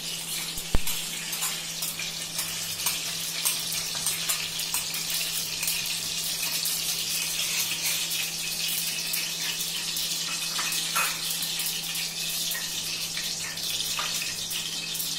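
Ghee heating in a pressure cooker on the stove: a steady hiss with light crackling and spitting, over a steady low hum. A single sharp click, such as a spoon knocking the pot, comes just under a second in.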